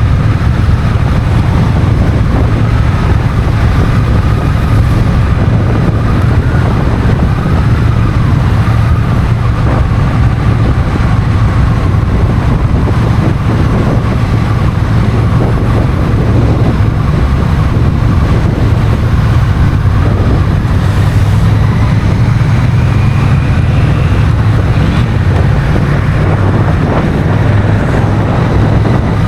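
Honda CMX1100 Rebel's 1084 cc parallel-twin engine running steadily while the bike is ridden, with wind rushing over the bike-mounted camera's microphone.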